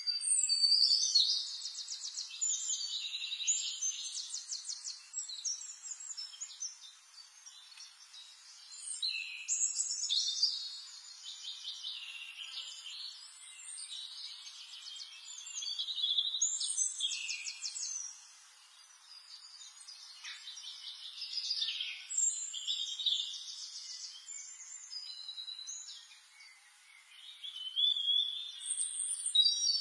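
Songbird singing in repeated bursts of rapid high trills and chirps, each a few seconds long with short pauses between.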